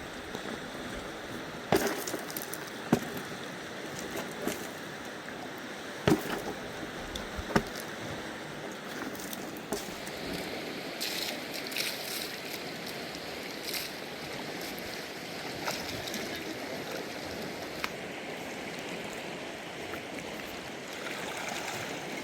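A river's water rushing steadily, broken by several sharp knocks in the first several seconds, the loudest two about six and seven and a half seconds in.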